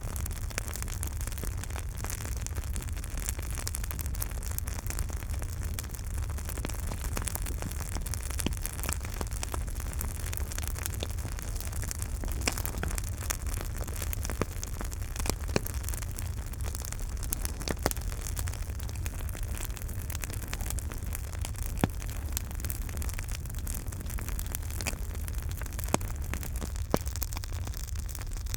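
Campfire burning: steady crackling with frequent small snaps and a few louder pops, over a continuous low rumble and hiss.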